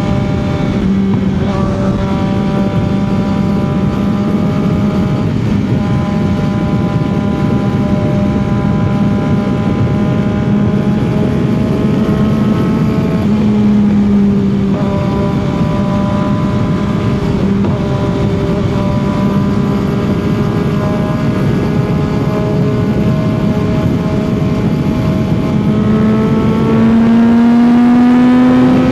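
CFMOTO 675 motorcycle's three-cylinder engine and exhaust running at a steady highway cruise, with wind rushing past. The engine pitch dips briefly about halfway through, then climbs and gets louder near the end as the bike accelerates.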